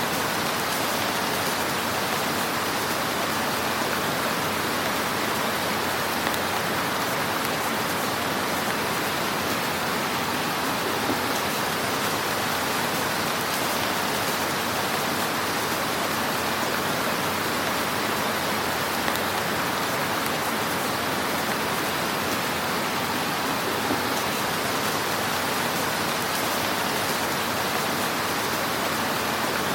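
Wood fire crackling in a fireplace: a steady, dense hiss of fine crackles, with a couple of slightly louder pops.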